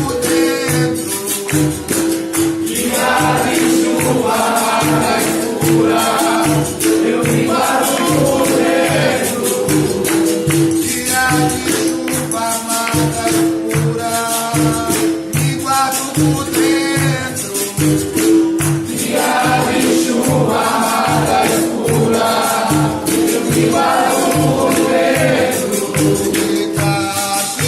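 Capoeira song: singing with a chorus, over berimbau and pandeiro with a steady low beat of about three pulses every two seconds.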